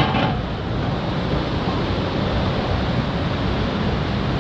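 Steady rushing noise of a waterfall, with no breaks or rhythm.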